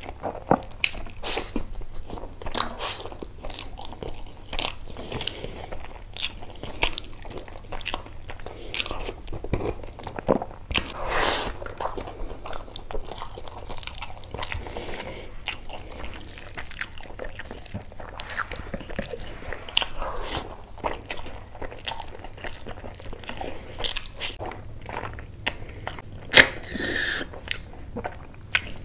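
Close-up mukbang eating sounds: a man chewing and biting into bone-in meat curry and rice eaten by hand, with wet smacks, mouth clicks and crunching, irregular and continuous. One louder, sharper mouth noise comes near the end.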